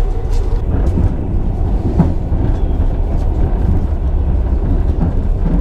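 Steady low rumble of a moving passenger train, heard from inside a compartment coach, with a few faint clicks over it.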